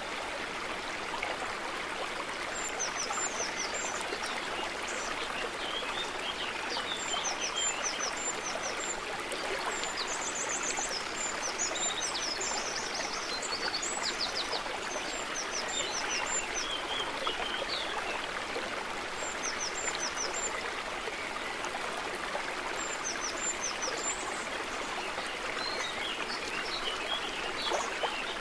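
A stream running steadily over stones, with small birds calling above it in short high chirps that come in repeated groups.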